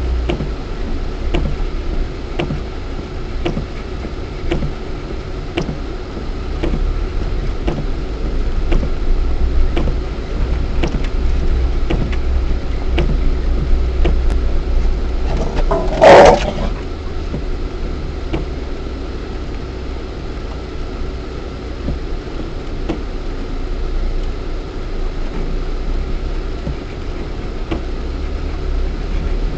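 Lada Niva 1.7i's four-cylinder petrol engine and drivetrain, heard from inside the cabin, with a steady low rumble while driving on a rough dirt track and many small knocks and rattles throughout. About sixteen seconds in comes one loud, short jolt, the loudest sound.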